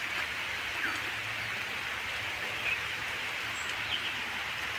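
Steady rain falling, an even hiss, with a few faint bird chirps over it.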